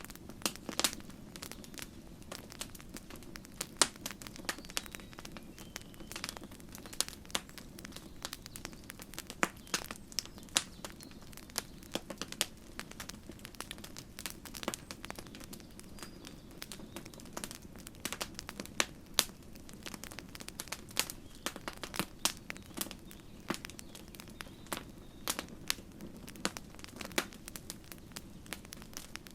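Campfire crackling: irregular sharp pops and snaps of burning wood, several a second, over a steady low hiss of the flames.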